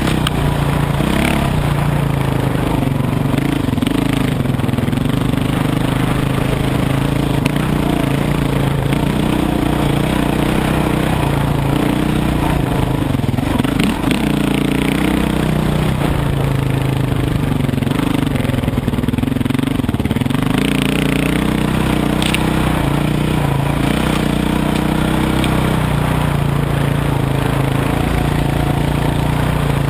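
Dirt bike engine running under way, its pitch rising and falling as the throttle is worked, with wind and road noise over it.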